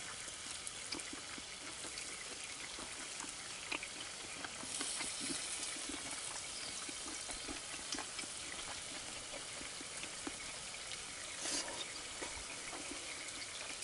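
Steady sizzling with small pops and crackles from food frying on a hot grill plate. It grows a little louder about five seconds in.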